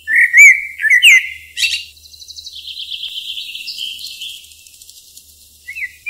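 Small birds chirping: a few sharp whistled chirps with quick rising and falling notes, then a rapid twittering trill lasting about three seconds, and more chirps near the end.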